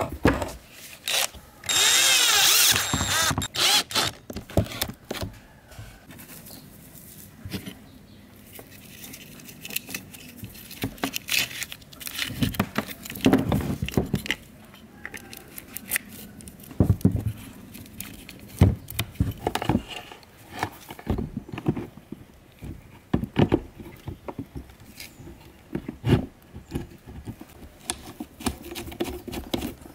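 A small motor whirs briefly, with its pitch sliding, about two seconds in. Then come scattered clicks, knocks and scraping as parts and hand tools are worked on at a workbench.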